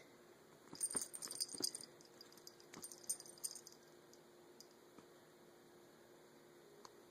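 Metal necklace chain jingling and rattling as a kitten bats and plays with it, in two short bursts: one about a second in, another around three seconds, then a few single clinks.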